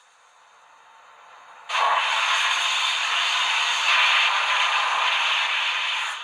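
Recorded steam-locomotive hiss from a model railway sound decoder (Zimo MX645R with a Henning sound project for the 02 0201 steam locomotive), played through two small 15x11 mm speakers with no sound chamber. After a faint hiss, a loud, thin steam blow starts suddenly about two seconds in, runs for about four seconds, and cuts off abruptly.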